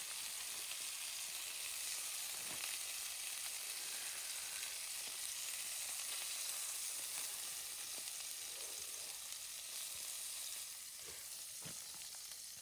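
Food sizzling as it fries in a pan over a small wood-fired camp stove: a steady frying hiss that eases slightly near the end, with a couple of light knocks.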